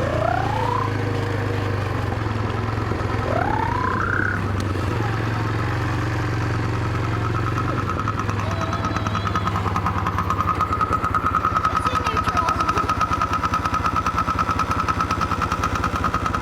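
Small dirt bike engine running, with two quick upward revs in the first few seconds. From about halfway it holds a steady, higher-pitched drone that grows louder and pulses rapidly.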